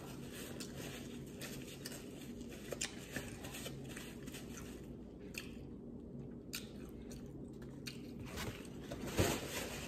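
Soft chewing and mouth clicks close to the microphone, mixed with a paper towel being rubbed over the hands; a louder bump near the end.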